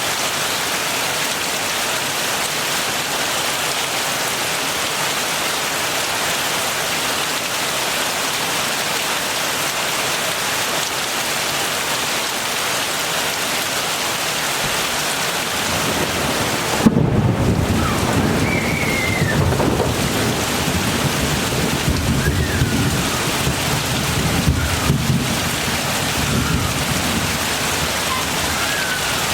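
Steady heavy rain falling. A little over halfway through, thunder comes in: a low rumble builds into a sharp clap, then rolls on for several seconds before dying back into the rain.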